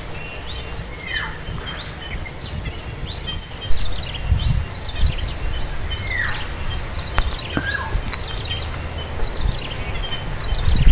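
Birds chirping outdoors: many short, high calls and a few calls that slide down in pitch. Under them runs a steady, pulsing insect trill, like a cricket or cicada.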